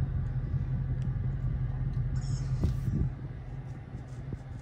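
Dodge R/T's V8 idling, heard from inside the cabin as a steady low hum that gets quieter about three seconds in.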